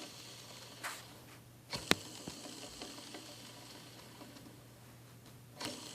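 Ball bearings on a Rotax 454 snowmobile crankshaft being wobbled and turned by hand, checked for play and noise. There are a few light clicks, the sharpest about two seconds in, then a faint hiss for a few seconds as a bearing turns.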